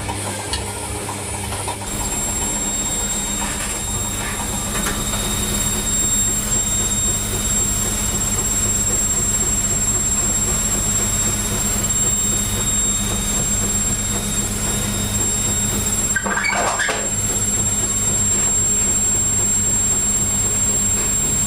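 Beko WM51435 washing machine running its wash, the drum agitating: a steady motor hum with a high whine that comes in about two seconds in, and a brief rattle about three quarters of the way through.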